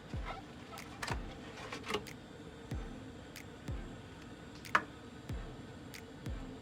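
Eggs being cracked into a zip-top plastic bag: small clicks and handling taps, with one sharp crack a little under five seconds in, over a run of soft low knocks every second or so.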